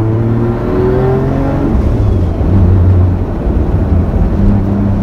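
Nissan Cefiro A31 drift car's engine accelerating under way, its pitch rising for about the first second and a half. It then breaks off into a rougher sound and settles to a steady pitch near the end.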